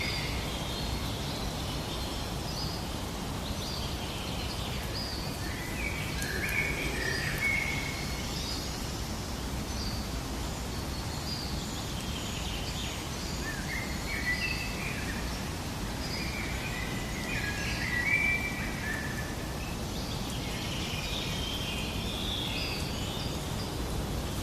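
Several birds chirping and singing in short scattered phrases over a steady background hiss.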